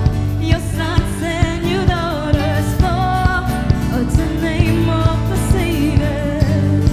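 Live praise and worship band playing a steady beat of about two drum hits a second under sustained chords and bass, with a wavering melody line on top.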